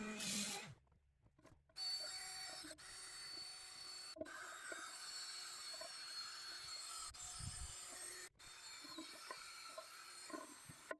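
A power tool with a rotary abrasive attachment scrubbing corrosion and old clear coat off an aluminum wheel: a steady gritty rubbing with a faint high motor whine, cut off abruptly several times.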